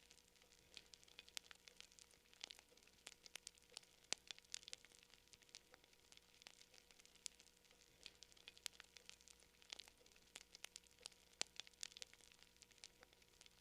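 Campfire crackling: faint, irregular pops and snaps of burning wood, a few each second.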